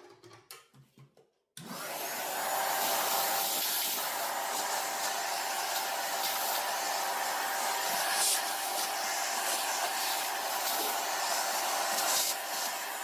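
A vacuum cleaner switched on about a second and a half in and running steadily, a hiss of rushing air with a thin steady whine, after a few clicks of handling.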